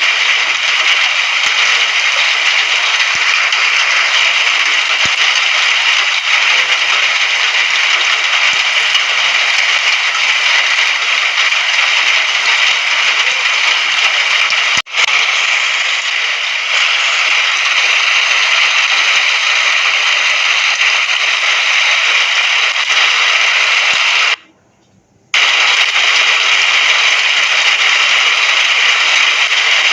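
Rain falling steadily as a dense, even hiss. It cuts out for about a second a little over three-quarters of the way through, then resumes unchanged.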